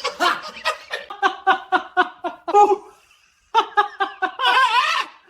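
High-pitched laughter in rapid ha-ha pulses, in two bouts separated by a short pause about three seconds in.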